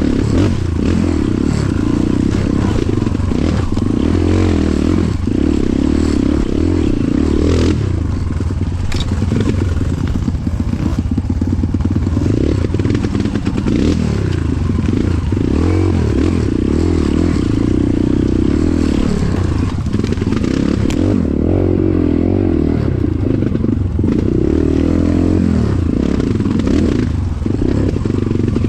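Motorcycle engine running under way, its revs rising and falling again and again as the rider works the throttle.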